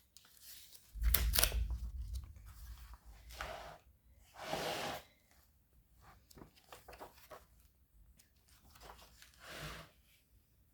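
Pages of an old hardcover book being turned and handled: dry paper rustling and crackling in several separate swishes, the loudest about a second in with a low thump.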